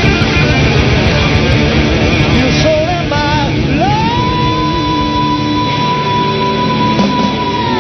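Rock band playing live, with electric guitars, bass and drums. About three seconds in, a single high note slides up and is held steadily over the band to the end.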